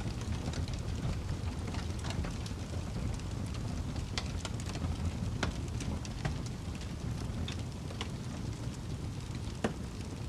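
Wood fire crackling in a fireplace: a steady low rumble of burning wood with irregular sharp pops and snaps, one of the strongest just before the end.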